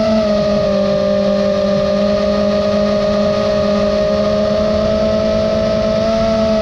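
Electric motors and propellers of an FPV racing quadcopter whining steadily, several pitches at once, rising briefly near the end as the throttle changes.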